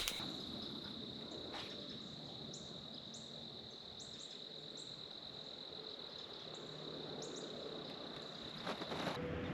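Steady high insect chorus, crickets trilling in the evening, with a few short high chirps over it. The chorus stops near the end.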